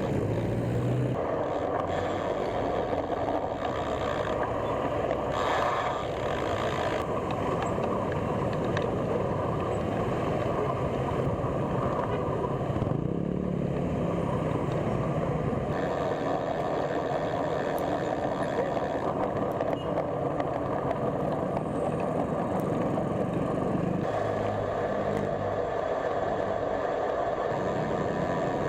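Steady road traffic noise of vehicles running along a road, heard while riding a bicycle.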